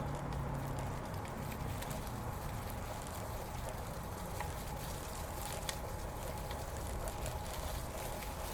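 Road bicycle rolling along a paved bike path: steady tyre and wind noise with a low rumble, and scattered light clicks.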